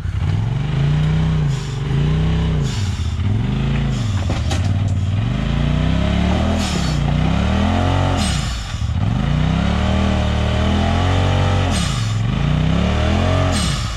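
Off-road vehicle engine revved hard again and again, its pitch climbing and dropping every second or two, as the driver guns it while the vehicle sits bellied out on a rock. Brief scraping noises come through between the revs.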